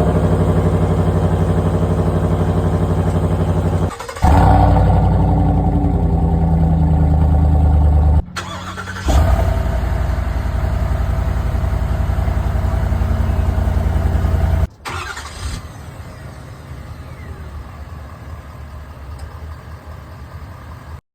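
Four pickup truck engines heard one after another in edited clips with hard cuts between them: a Ford F-250's 6.7-litre Power Stroke diesel, a Ford F-250's 7.3-litre Godzilla V8, a Chevy Silverado's 5.3-litre V8 and a Ram 1500's 5.7-litre V8, each running loudly. The last clip is quieter.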